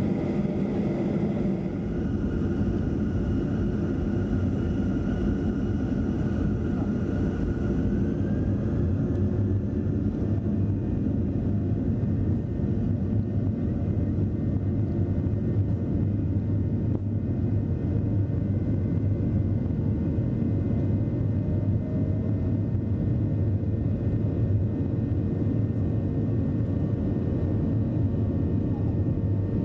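Jet engine and cabin noise inside a Boeing 737-300: a steady low rumble with a higher whine that rises and fades about eight seconds in.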